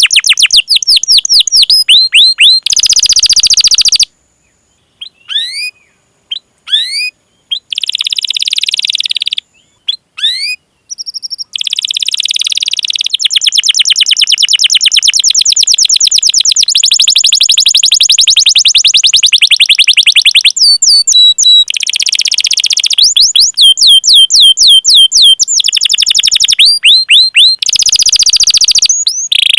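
Canary singing: quick runs of rising 'cuit cuit' chirp notes and dense rolling trills, with short pauses about four and ten seconds in.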